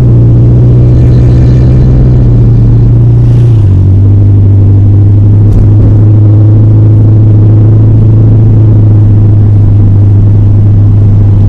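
Car engine and road rumble heard inside the cabin while driving: a loud, steady low drone whose pitch steps down about three and a half seconds in, as the engine speed drops.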